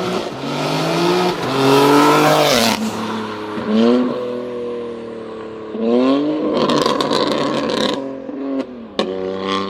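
A car engine revving hard as the car accelerates away. Its pitch climbs and then falls back several times with the gear changes, and sharp crackling pops come in about two-thirds of the way through.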